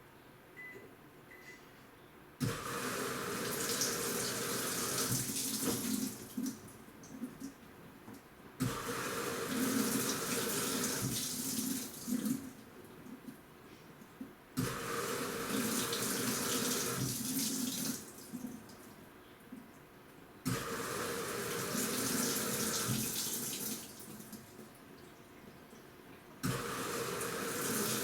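An AQUA washing machine with a direct-drive inverter motor in its wash agitation: water churns and sloshes in bursts of about three and a half seconds, with a short, quieter pause between. The bursts repeat about every six seconds as the drum or pulsator turns one way, stops and turns back.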